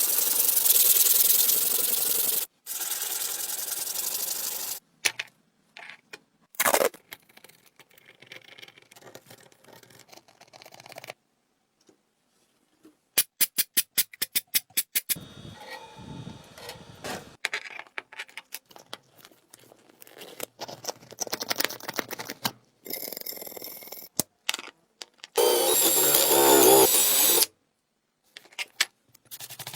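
Workshop tools working the metal of rusty antique scissors during rust removal. A loud, steady abrasive run from a power tool sounds at the start and again near the end, with quieter scraping and a quick run of sharp clicks in between.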